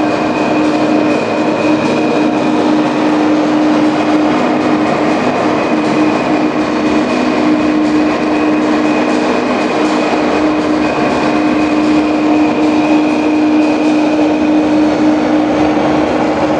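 A vehicle running with a steady drone and a held low hum, level and unbroken throughout.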